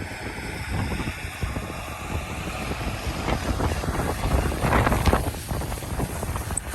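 Storm wind buffeting the microphone: a gusty, uneven rumble that swells to its strongest gust about two-thirds of the way through.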